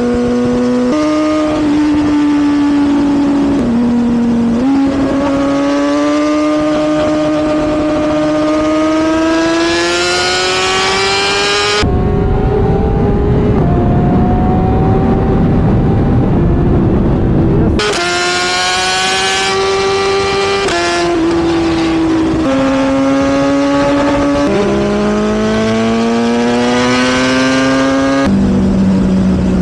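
Sportbike engine under way, its revs climbing and then dropping at each gear change, with one long steady climb in the first half. In the middle, for about six seconds, loud wind rush covers the engine, which then carries on revving up and shifting.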